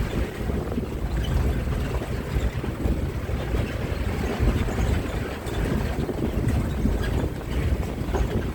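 Wind buffeting the microphone over the steady low rumble of a moving bus.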